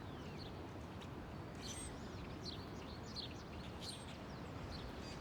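Steady wind noise, with several faint, short bird chirps scattered through it.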